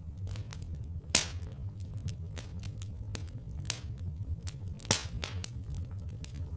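Wood fire crackling, with irregular small snaps and two louder pops, about a second in and again near five seconds, over a steady low rumble.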